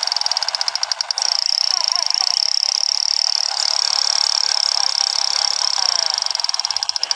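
Battery-powered toy MP5 gun's electronic rapid-fire sound effect: a loud, high buzz pulsing many times a second, running steadily for about seven seconds.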